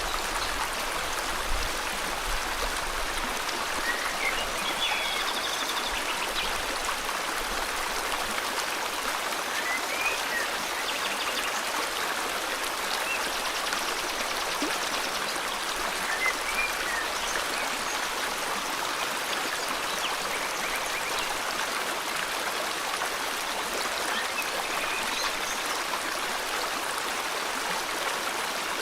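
River water flowing steadily, with short bird chirps every few seconds over it.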